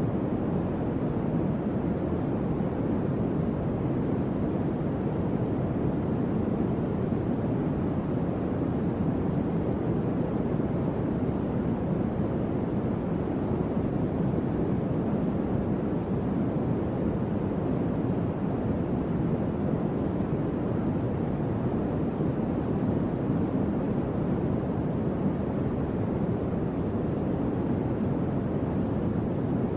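Electric fan running steadily: an even, deep rush of moving air with no change in speed or pitch.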